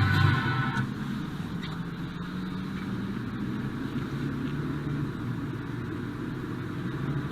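Steady low road and engine noise of a car driving, as picked up by a dashcam inside the vehicle. A louder sound fades out in the first second.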